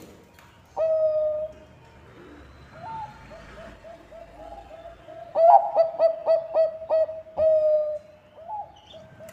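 Zebra dove (perkutut bangkok) cooing. A single drawn-out coo about a second in, then soft short coos, then a loud rapid series of staccato notes about five seconds in that ends in a longer drawn coo.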